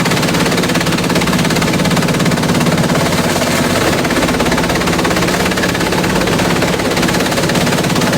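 Industrial bamboo shredder running steadily, with a fast, continuous clatter of rapid repeated impacts.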